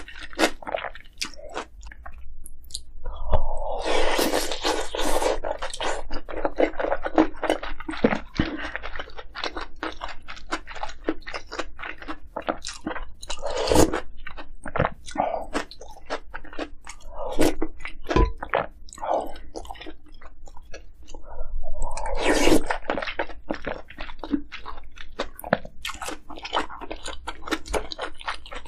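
Close-miked eating of dumpling soup and kimchi: a steady run of short, wet crunching and chewing sounds, with louder, denser bursts of eating noise about three seconds in and again a little past twenty seconds.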